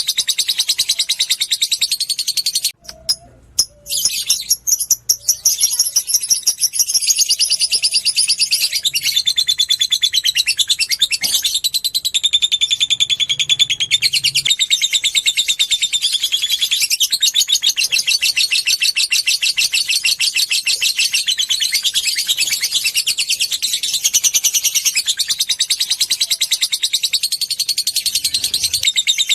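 Lovebird singing a long, rapid chattering trill (ngekek), very fast notes packed together and kept up almost without pause, with a brief break about three seconds in.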